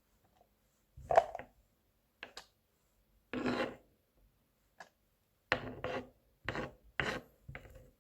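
Kitchen knife mincing garlic on a cutting board: short scraping strokes through the chopped garlic, about eight of them at an uneven pace.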